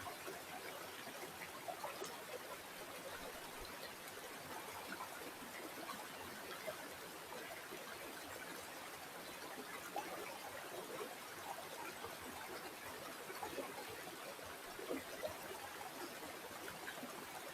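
Natural stream water flowing and trickling steadily, with a dense patter of small gurgles and splashes.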